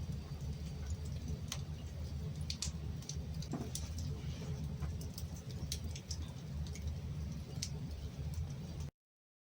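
Wood fire crackling in a fireplace: irregular sharp pops and snaps over a low steady rumble, cutting off abruptly near the end.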